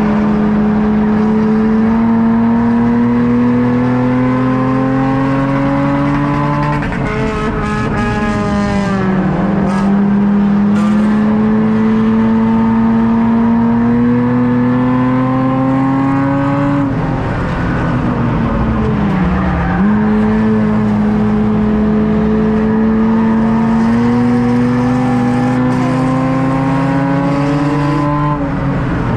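Stock-car engine heard from inside the car at racing speed. Its note climbs slowly as it pulls down a straight, then drops sharply as the driver lifts for a turn, three times over, with a steady loud rumble throughout.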